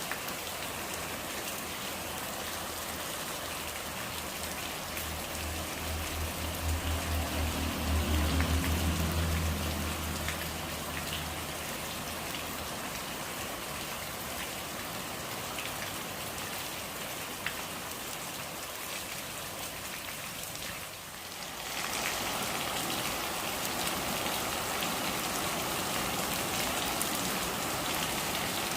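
Steady rain falling, an even hiss of drops hitting surfaces. A low rumble swells up a few seconds in and fades again. Near the end the rain dips for a moment, then comes back slightly louder.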